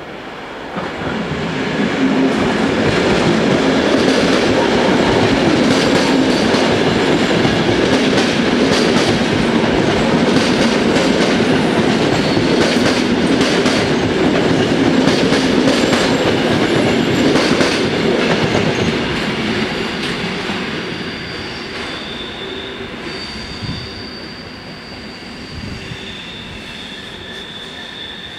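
An NS SGMm Sprinter electric train passes close by, its running rumble and rattle loud for most of the time and fading after about twenty seconds. In the last several seconds high metallic squealing tones from the train stand out.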